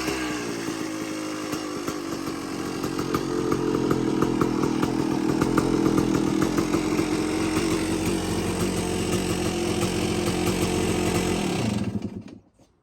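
1992 Yamaha YZ250's two-stroke single-cylinder engine dropping from a rev and settling into a steady idle. Near the end it is shut off and dies within about half a second.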